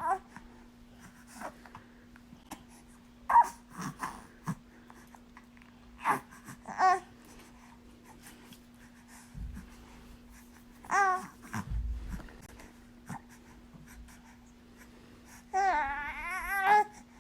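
Two-month-old baby cooing: a handful of short, high coos spread out with pauses between them, then a longer wavering coo near the end.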